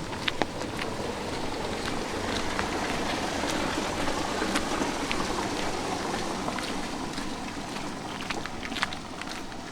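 A vehicle passing on a wet street, its tyre hiss swelling through the middle and fading away, over light rain and scattered footsteps.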